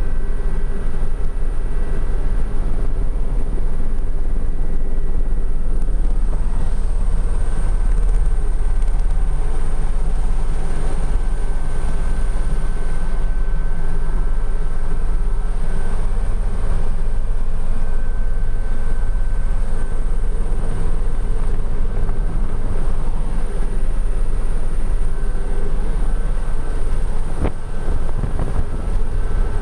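Helicopter in flight, with its engine and rotor running steadily: a heavy low drone under a constant high whine.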